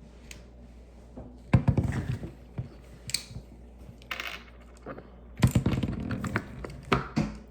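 Small plastic Lego pieces clattering and clicking as they are handled and rummaged through, in two louder bursts about one and a half and five and a half seconds in.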